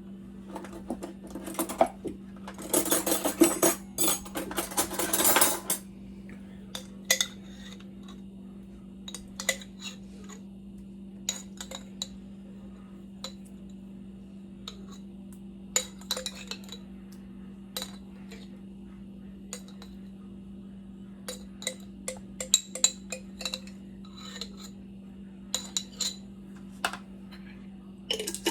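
A spoon scraping wet jerk seasoning out of its container, with a dense run of scraping a couple of seconds in, then scattered clinks and taps against the container.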